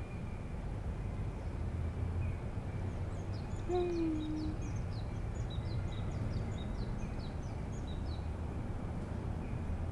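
Birds chirping in quick, high, short notes for several seconds over a steady low background rumble, with one short low call about four seconds in.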